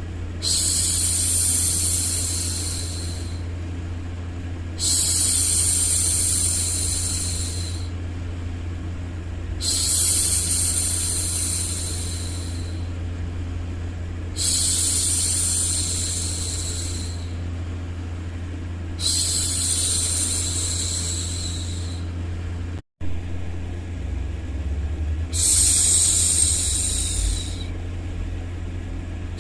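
A woman's long, soft 'shhh' hushing, repeated six times at an even pace about every five seconds, each lasting two to three seconds. Under it runs a steady low rumbling white noise for soothing a baby to sleep. The sound cuts out for an instant about three-quarters of the way through.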